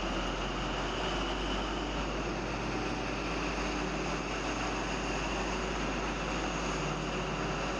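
Diesel High Speed Train power car running steadily as the train pulls out of the station, with a constant engine drone and a faint steady high whine.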